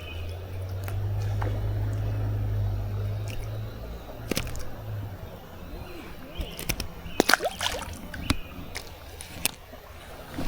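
Creek water sloshing and trickling, with a steady low rumble through the first half and scattered light knocks and clicks.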